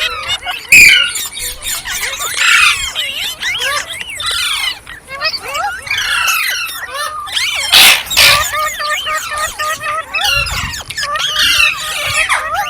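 Green parrots, rose-ringed (Indian ringneck) parakeets, chirping and squawking in a dense, unbroken stream of quick rising and falling calls. There is a loud sharp call just under a second in and a loud harsh screech about eight seconds in.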